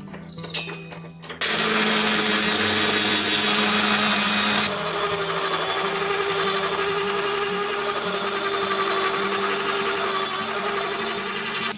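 Electric power tool starting about a second and a half in and running loudly and steadily with a hum. About five seconds in, its tone shifts higher and the hiss brightens, then it stops abruptly.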